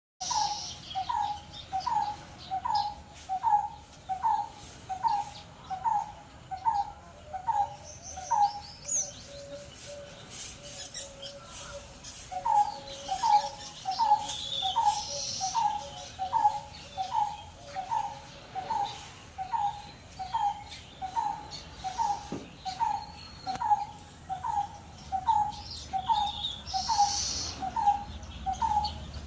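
A pet bird calling: one short note repeated steadily about one and a half times a second, breaking off about nine seconds in and resuming about three seconds later, with scattered higher chirps.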